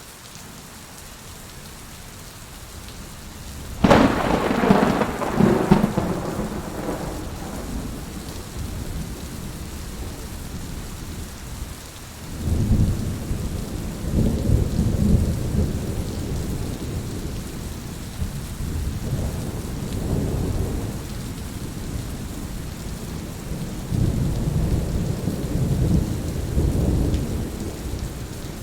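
Heavy rain falling steadily. A sharp, loud thunderclap comes about four seconds in and fades into a rumble, followed by several rolls of lower thunder.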